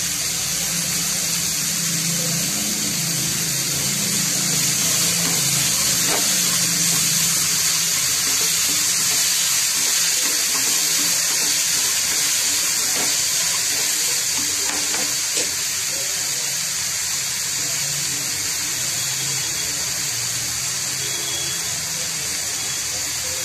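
Vegetable mix of potato, paneer, peanuts and peas sizzling steadily in oil in a kadhai. A plastic spatula makes a few light scrapes and taps against the pan as it is stirred.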